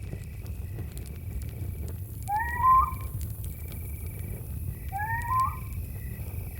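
Campfire crackling over a low steady rumble, with crickets chirping in an even pulse. Twice, about two and a half seconds apart, an owl gives a short rising call, the first one louder.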